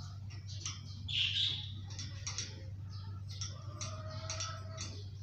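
Indian ringneck parakeet chirping and squawking in short calls, with one louder squawk about a second in and a longer held note near the end. A steady low hum runs underneath.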